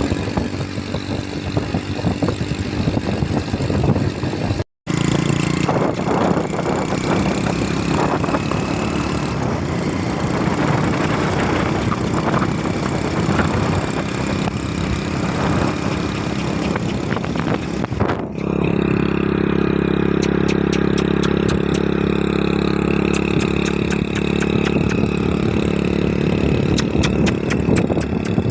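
Motorcycle engine running while riding. The sound drops out for a moment about five seconds in, and from about eighteen seconds in it settles into a steadier, even engine hum.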